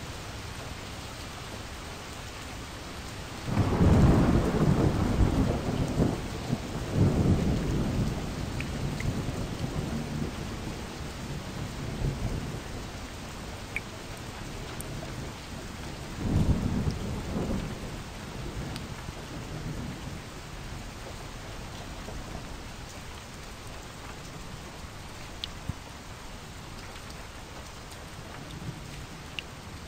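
Steady rain with rolling thunder: a loud rumble starts about four seconds in and rolls on for several seconds, and a shorter one comes a little past halfway.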